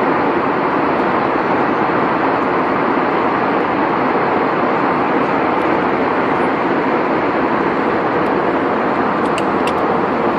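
Steady, even rushing noise of a moving vehicle, with a few faint ticks near the end.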